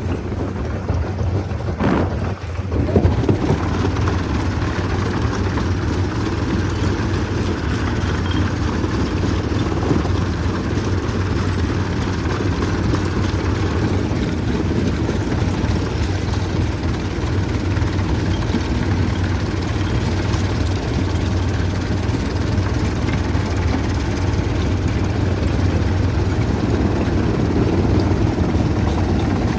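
Stone crushing machinery running steadily with a deep, constant hum, with a brief louder clatter about two to three seconds in.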